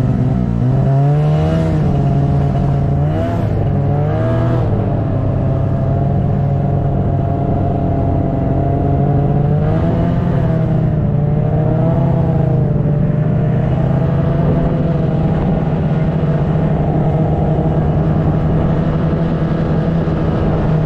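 Snowmobile engine running steadily while riding, its pitch rising and falling with the throttle in the first few seconds and again about ten seconds in.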